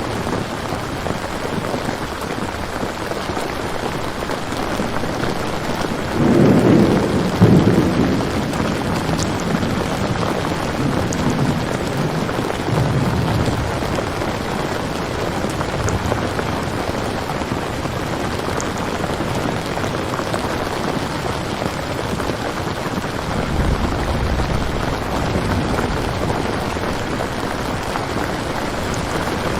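Steady rain with rolls of thunder: a louder low rumble about six seconds in and a fainter one near the end.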